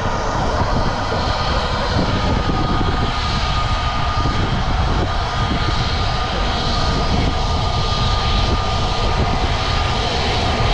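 Airliner engines running loud and steady: a broad rushing noise with a steady high whine through it.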